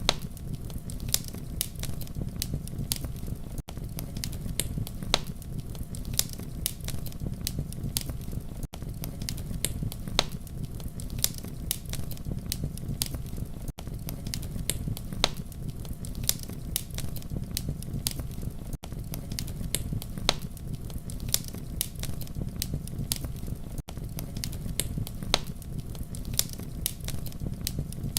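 Campfire crackling and popping, with irregular sharp snaps over a steady low rumble of burning wood. The sound dips briefly about every five seconds.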